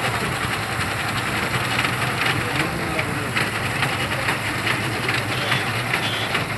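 A vehicle engine running steadily at idle, with people's voices in the background.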